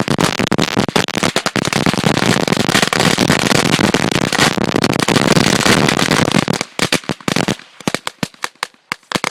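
Firecrackers packed inside a burning computer going off in a rapid, dense string of bangs, thinning to scattered separate pops after about six and a half seconds.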